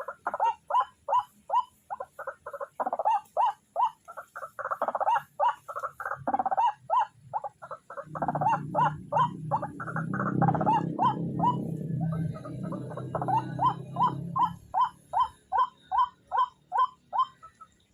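White-breasted waterhen calling: a long run of short, harsh "kwaak" notes, about three a second. A low rumbling noise runs under the calls from about eight to fourteen seconds in.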